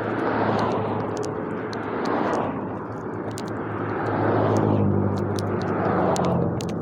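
Engine noise with a steady low hum and a rushing sound that swells and fades several times, with light ticks and clicks over it.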